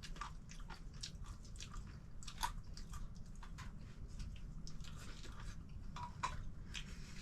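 Someone chewing peanuts close to the microphone: irregular crunches and small clicks, over a low steady hum.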